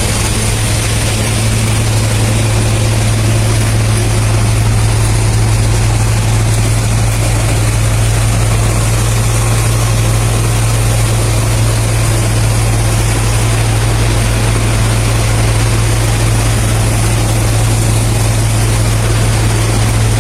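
Tractor engine running steadily while cutting grass, a loud, even low hum with no change in speed.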